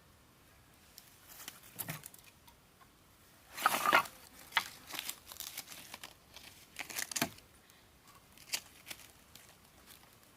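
Crackling and rustling handling sounds in a few short bursts, the loudest a half-second rustle about four seconds in.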